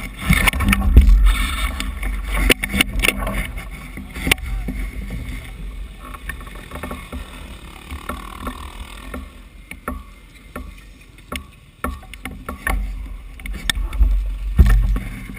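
Low buffeting rumble on a GoPro camera's microphone, loudest in the first few seconds and again near the end, with many scattered knocks and clicks.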